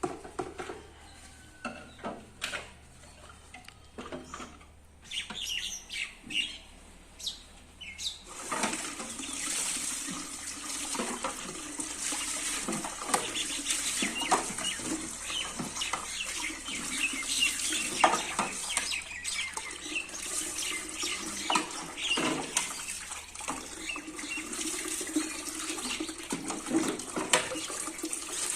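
A few scattered knocks and clicks, then from about eight seconds in a tap running steadily with splashing and repeated clattering of things being washed under it.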